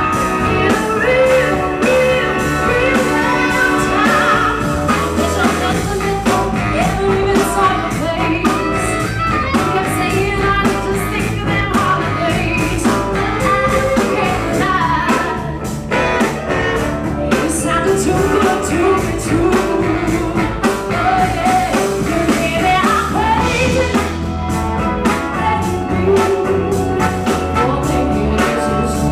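Live soul band playing a song: singing over guitar and a steady drum beat.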